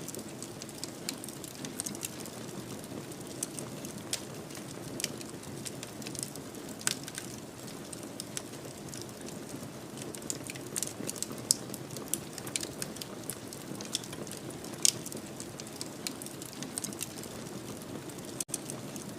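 Wood fire in a fireplace crackling, with frequent irregular sharp pops over a steady low rush of flames. Near the end the sound drops out for a split second.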